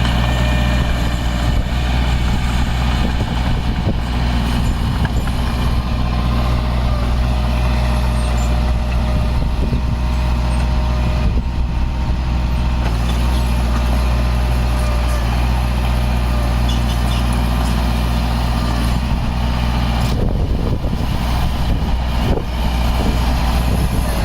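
Heavy diesel engine of earthmoving machinery running steadily with a deep, continuous drone. Its note shifts near the end.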